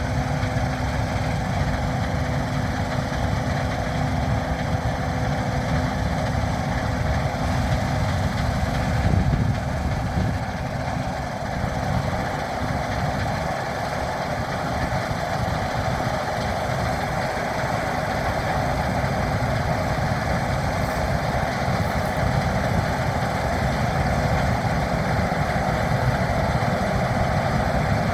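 Heavy diesel harvest machinery running steadily under load, a constant engine drone with a steady hum.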